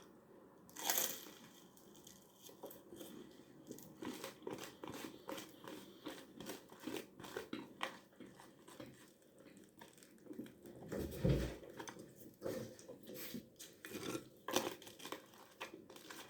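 Close-up chewing and crunching of toast crust, with irregular crisp crackles. A single louder, dull thump comes about eleven seconds in.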